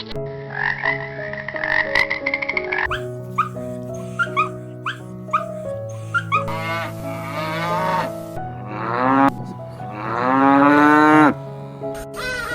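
A run of animal calls over background music with a steady beat: a rattling, croak-like call first, then a string of short, quick calls, then several drawn-out calls, the longest and loudest near the end.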